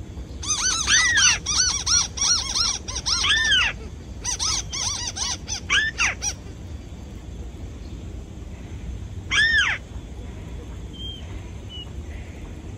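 Decoy bird calling at a bird trap: fast runs of arched, squealing notes, each rising then falling in pitch, in two bursts over the first six seconds, then a single call about nine and a half seconds in.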